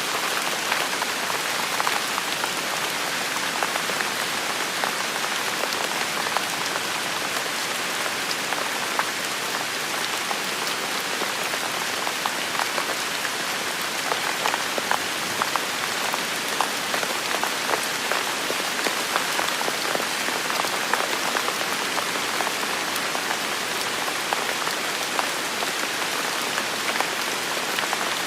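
Steady rain falling on hard surfaces, a dense hiss with many individual drops ticking and pattering throughout.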